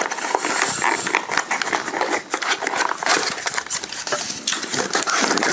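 Paper and plastic packaging from a phone box being handled: close, rapid, irregular rustling and clicking.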